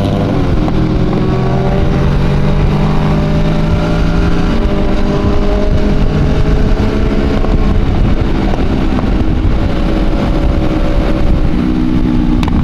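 Motorcycle engines running at steady road speed, their pitch drifting slightly up and down.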